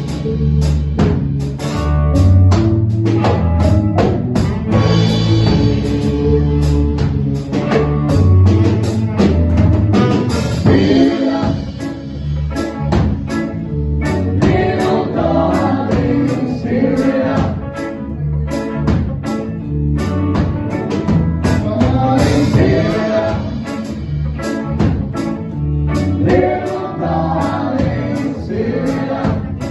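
A band playing a reggae song: bass, drums and guitar with singing, at a steady beat.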